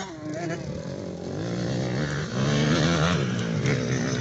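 Motocross bike engines revving on the track, their pitch rising and falling with the throttle; they are loudest from about two seconds in, then ease back toward the end.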